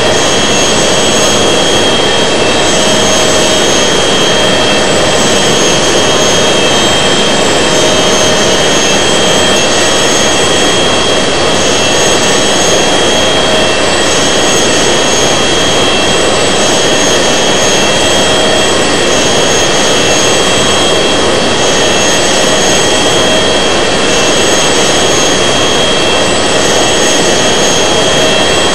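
Airbus A380 jet engines and rushing airflow heard from inside the passenger cabin in flight: a steady, loud roar with a thin high whine that holds level throughout.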